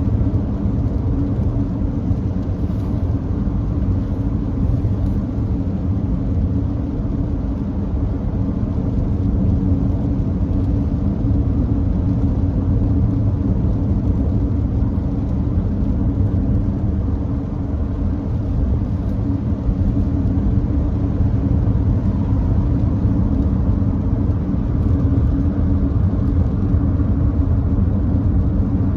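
First-generation Nissan Note e-POWER driving at steady expressway speed on a rain-wet road: a steady low rumble of road and tyre noise.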